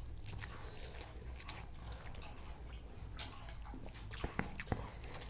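People eating fish and rice: chewing and smacking, with small wet clicks and a few sharper clicks about three to four and a half seconds in.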